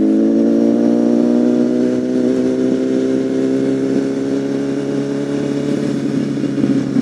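Honda CBR1000RR Fireblade's inline-four engine running, its pitch falling slowly as the revs drop off, then levelling out and going rougher near the end as the bike slows.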